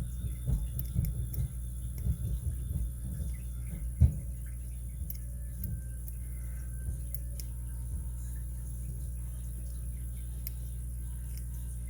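Small clicks and taps from a lock pick and tension wrench working the pin stacks of a Master 930/950 padlock core, with one louder knock about four seconds in, over a steady low hum. The clicking thins out to faint ticks after the knock.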